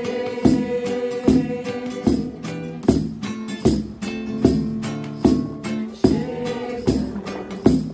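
Singalong to an acoustic guitar strummed in a steady rhythm.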